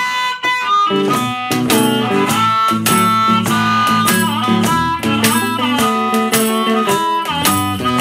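Chicago blues instrumental intro: amplified electric guitar and harmonica over a steady rhythm with washboard strokes, starting suddenly at the beginning.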